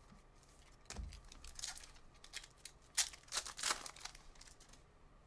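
Trading-card pack wrappers being torn open and crinkled, with cards handled in a few short, faint rustling bursts.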